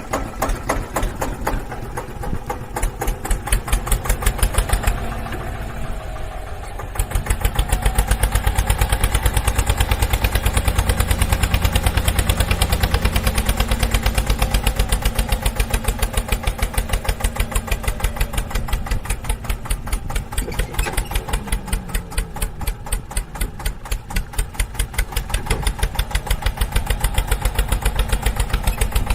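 Engine running with a steady, rapid pulsing beat, like a diesel tractor engine; it grows louder and heavier about seven seconds in and keeps going.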